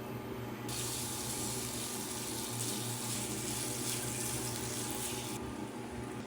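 Water running steadily, starting about a second in and cutting off abruptly about a second before the end.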